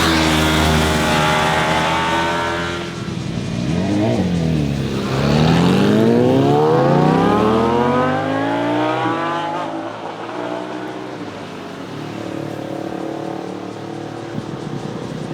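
Motorcycle engines passing through a corner: the engine note falls as the bikes slow in, then rises steadily for several seconds as they accelerate out. After that a quieter, steadier engine sound trails off.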